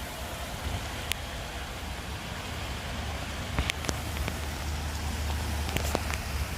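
Waterfall rushing steadily, with a low rumble underneath and a few sharp clicks.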